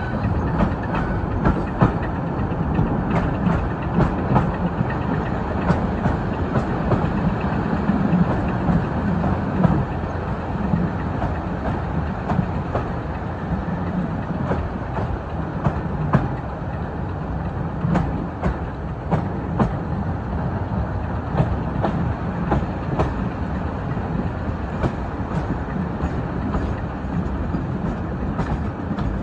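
Passenger train hauled by Class 31 and Class 26 diesel locomotives running along the line: a steady rumble of the coaches with irregular sharp wheel clicks on the rails throughout, heard from an open carriage window.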